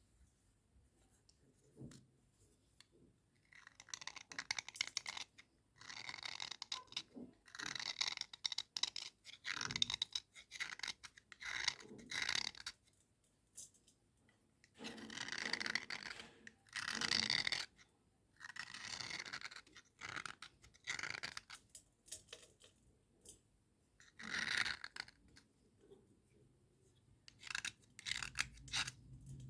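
Dry scrubbing and scraping on slate, in repeated strokes of one to two seconds with short pauses between.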